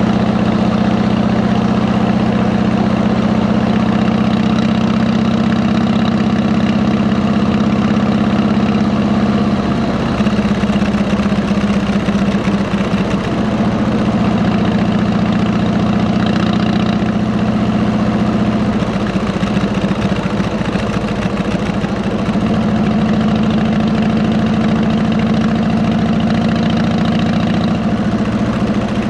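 Harley-Davidson V-twin motorcycle engine running at a steady idle. Its note shifts slightly about a third and two thirds of the way through.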